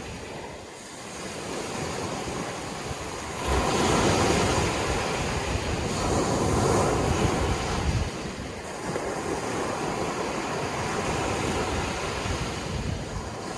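Sea waves breaking on a shore. A wave surges in about three and a half seconds in and stays loudest for several seconds, then eases back to a steadier wash of surf.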